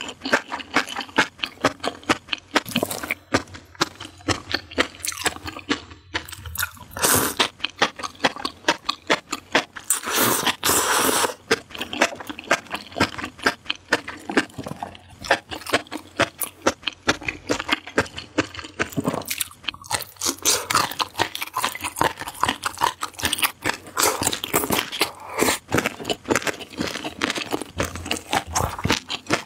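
A person chewing spicy food close to the microphone: rapid wet clicks and crunches of mouth sounds, with a few longer rushes of noise between them.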